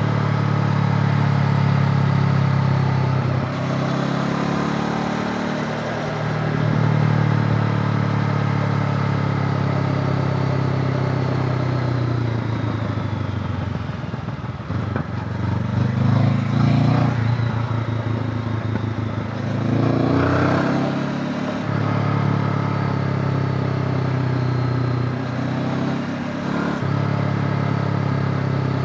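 Honda CB500X's parallel-twin engine running under way. Its note steps up and down in pitch several times, and there are rougher, louder stretches about halfway through and again a few seconds later.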